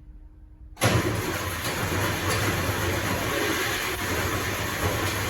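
Mack Cruiseliner cabover's diesel engine starting about a second in, catching at once and running steadily with a low rumble.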